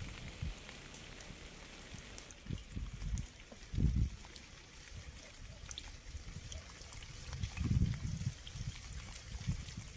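Rain falling and dripping, with scattered sharp drop ticks and a few deep low rumbles that swell loudest about four and eight seconds in.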